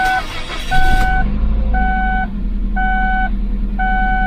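2007 Ford Focus 1.6 petrol engine cranking and catching quickly in the first second, then idling steadily. The idle is still high, around 2,000-plus rpm, a sign the suspected vacuum leak persists after the new spark plugs. A car's warning chime beeps about once a second throughout.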